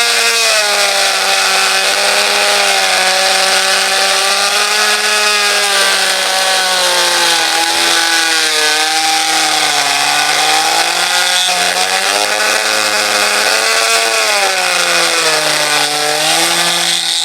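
Handheld electric power tool, such as a grinder, running continuously while pressed into the work. Its motor pitch sags and recovers several times as it is loaded, over a steady hiss of grinding.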